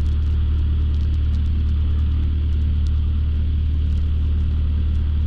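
Light aircraft's piston engine running steadily at low taxi power, a constant low drone heard from inside the cockpit.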